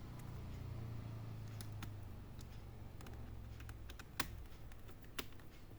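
Scattered light clicks of a screwdriver tightening loose hinge screws in an opened HP 14s laptop, over a faint low hum that fades after about four seconds.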